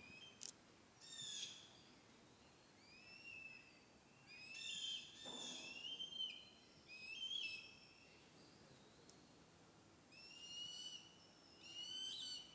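Birds calling: a series of harsh, high calls, each about half a second to a second long, several in close succession near the middle and two more near the end, with fainter high notes between them.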